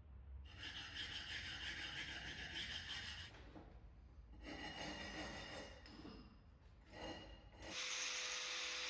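Rasping, scraping strokes of a hand tool worked against a hard surface, in three separate bursts. A louder steady whirring noise sets in near the end.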